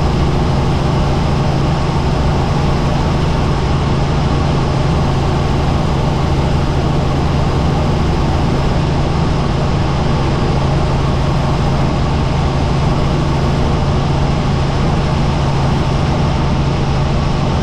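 Helicopter in flight, heard from inside the cabin: a loud, steady drone of rotor and turbine noise with a strong low hum underneath.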